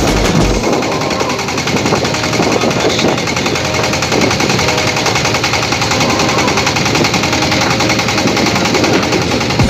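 Boat engine running steadily with a rapid, even beat.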